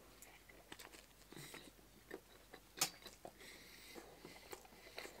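Faint chewing of a mouthful of fried chicken sandwich in a soft bun, with scattered soft clicks of the mouth and one clearer click a little under three seconds in.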